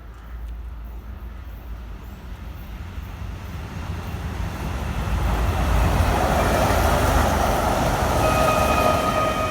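ER9E electric train pulling into the station, its rumble and wheel noise building steadily for several seconds as it draws near. Near the end a steady high-pitched tone with several pitches sets in and holds.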